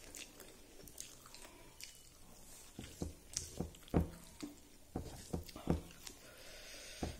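A person chewing and eating rice and vegetables by hand, close to the microphone. The mouth and food noises come as a string of short clicks, most of them from about three to six seconds in.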